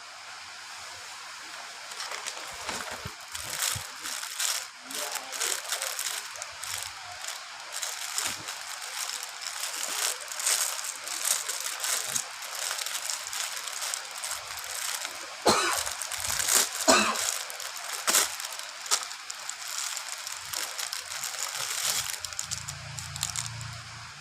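Rain falling steadily: a hiss full of separate drop hits, with a few louder hits near the middle.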